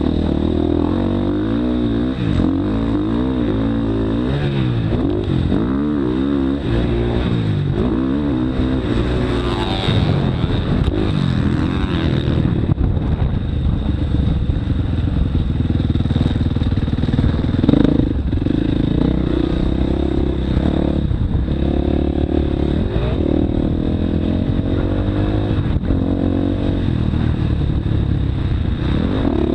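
Motocross dirt bike engine running hard, its pitch climbing and dropping over and over as the throttle is worked through a practice lap, with occasional clatter from the bike over the track.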